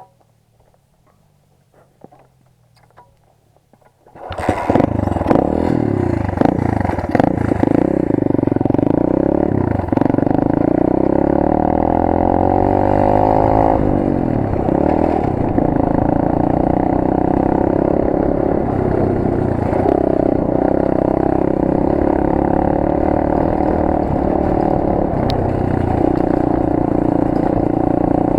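Rampage 125 cc pit bike engine comes in suddenly about four seconds in, after a few faint clicks, and then runs loudly as the bike rides, revving up and down, with a rising pitch as it accelerates near the middle. Chassis rattle is heard over the engine.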